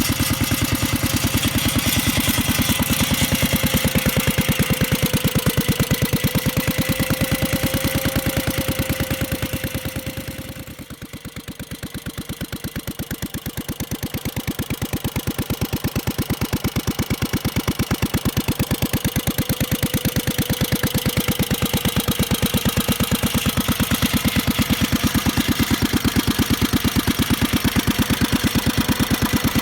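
Air-cooled, kerosene-fuelled, side-valve four-stroke stationary engine (CO.TI.EMME IDRO) running steadily with a rapid, even beat. The sound drops briefly a third of the way in, then comes back to full level.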